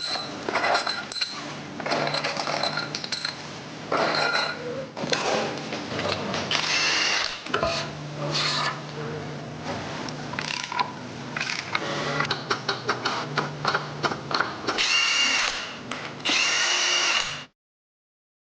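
Handheld power tool running in repeated short bursts, with metal clicks and clatter in between, during the teardown of a diesel engine. The sound cuts off suddenly near the end.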